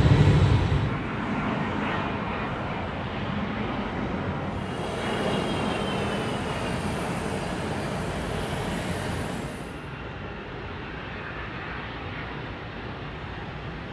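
Jet airliner engine noise, a steady rumble and rush that is loudest in the first second. It changes abruptly several times as between separate recordings, with a faint high whine about five seconds in.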